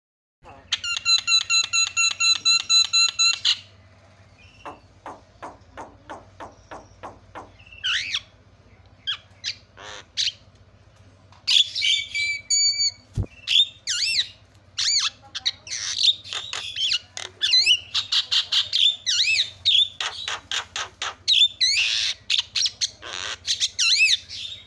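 Javan myna calling. First comes a fast run of harsh repeated notes, then a string of short clipped notes. From about halfway through it breaks into loud, dense chatter: squawks, whistles and rattling calls.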